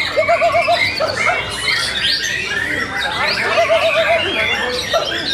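Many white-rumped shamas singing and calling over one another: dense overlapping chirps, whistles and harsher notes. A quick low run of about five notes comes twice, near the start and again in the middle.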